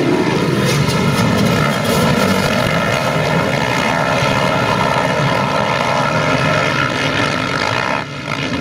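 A pack of motocross bikes racing together, many engines at high revs blending into a loud, steady drone that dips briefly about eight seconds in.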